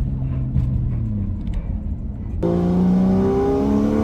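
Car engine heard from inside the cabin, running with its note easing slightly lower, then about two-thirds of the way in it turns suddenly louder with a hiss and the note climbs steadily as the car accelerates.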